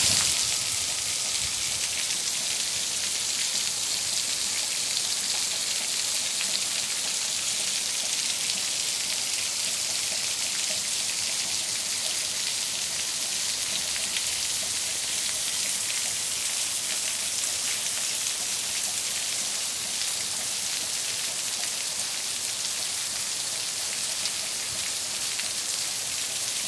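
Heavy rain pouring steadily onto wet ground, an even, unbroken hiss.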